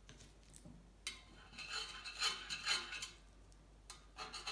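Steel bicycle bottom bracket cup scraping and clinking against metal as it is handled and worked, with a light metallic ring. It starts about a second in and dies away shortly before the end.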